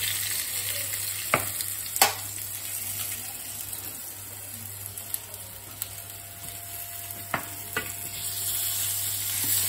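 Two floured bonito rolls sizzling in hot olive oil in a frying pan, browning to seal them. A few sharp knocks of the metal skimmer and wooden spoon on the pan as they are turned, the loudest about two seconds in.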